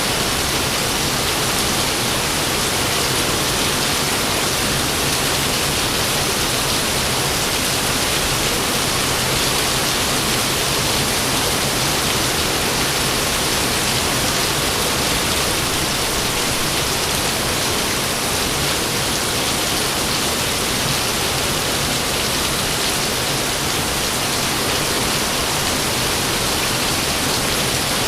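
Rain falling steadily: a loud, even hiss without a break.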